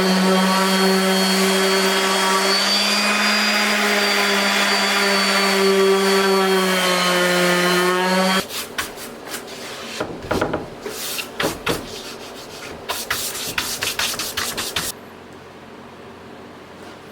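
Electric sander running on a wooden cutting board with 220-grit paper for about eight seconds, its motor tone dipping slightly under load, then switched off. Irregular sanding strokes of paper rubbing on wood follow for several seconds and stop near the end.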